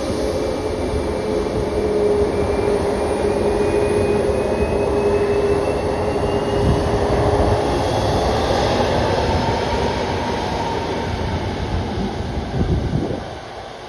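Jet airliner passing close on the runway, its engines giving a loud steady noise with whining tones that shift in pitch. The noise drops off sharply near the end.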